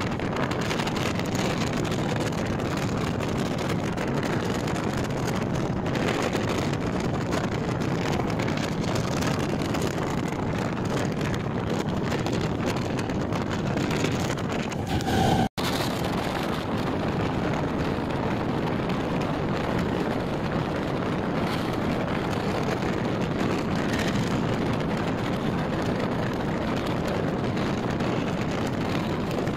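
Moving train heard from an open door or window: the steady running noise of the train on the track, mixed with wind buffeting the microphone. About halfway through there is a brief higher tone, then a momentary dropout to silence before the running noise resumes.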